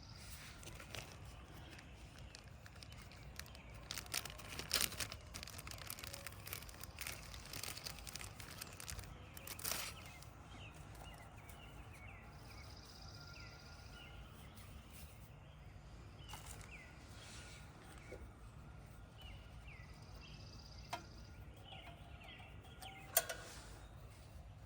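Scattered small clicks and knocks of parts and tools being handled while working on a generator carburetor, busiest in the first ten seconds. After that, birds chirp in short repeated calls over faint outdoor background noise, with one sharp click near the end.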